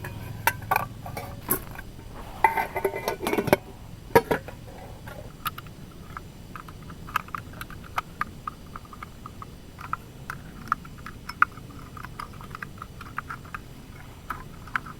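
Metal camp cookware and utensils clinking, with short ringing tones, in the first few seconds. After that, scattered light ticks and taps.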